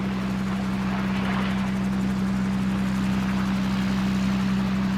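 Helicopter running in flight, a steady drone with a constant low hum.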